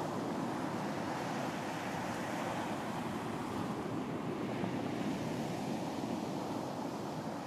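Sea surf washing onto a beach in a steady, continuous wash, swelling slightly midway.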